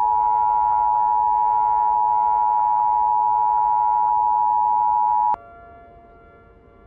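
Emergency alert attention tone on a weather-radio broadcast: one loud, steady electronic tone that cuts off with a click about five seconds in, leaving a faint hum. It is the alarm that comes before a warning message is read.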